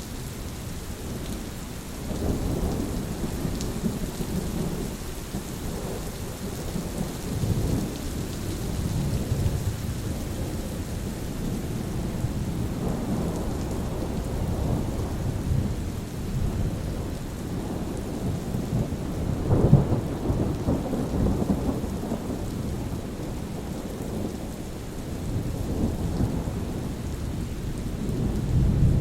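Steady rain with rolling thunder, low rumbles swelling and fading several times, the strongest about two-thirds of the way through.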